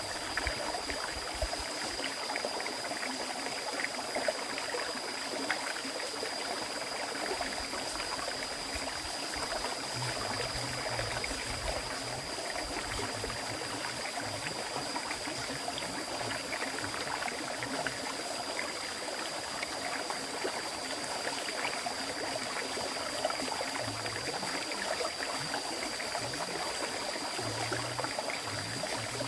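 River stream flowing steadily over rocks, a continuous rushing and splashing of water, with a thin steady high-pitched whine above it.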